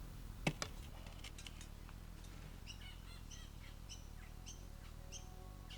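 Small birds chirping: a run of short, high, repeated chirps, about two or three a second, starting about a third of the way in. A single sharp click comes about half a second in.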